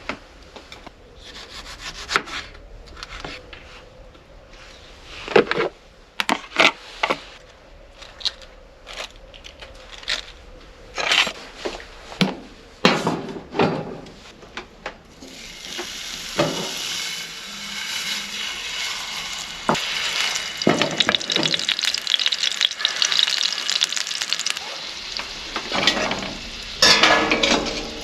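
Handling knocks and scrapes of a utensil against a pan. About halfway in, food starts sizzling steadily in the hot pan while it is stirred and scraped, with a louder scrape near the end.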